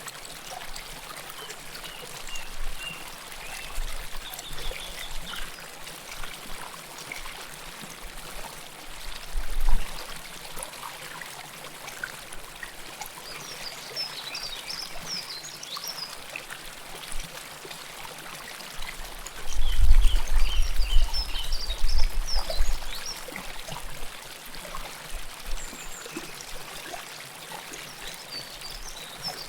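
River water flowing and trickling steadily, close to the microphone, with scattered bright high trickling notes. Low rumbles come in about ten seconds in and again for a few seconds around twenty seconds.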